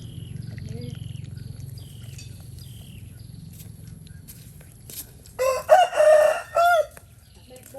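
A rooster crowing once, a single call of several parts about a second and a half long, starting about five and a half seconds in. Before it, small birds chirp faintly with short, repeated falling notes.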